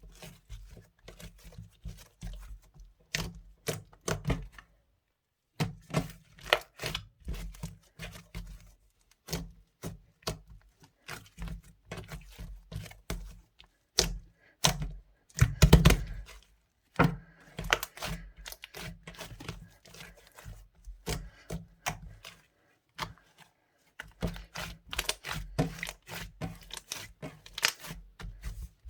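Hands squishing, pressing and folding a slightly sticky mint-chocolate clay slime (slime mixed with iClay), making irregular crackling clicks and sticky pops. The clicks come in quick clusters, with a couple of short pauses.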